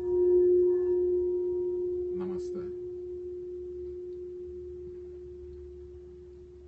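Singing bowl ringing with one steady low tone that slowly fades away, its fainter higher overtones dying out within the first two seconds. A brief soft noise about two seconds in.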